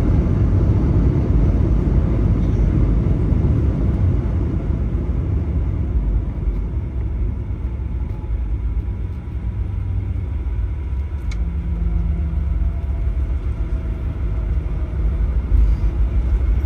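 Boeing 737-900 cabin noise during the landing rollout: a steady low rumble of the engines and wheels on the runway. It eases a little around the middle and builds again near the end.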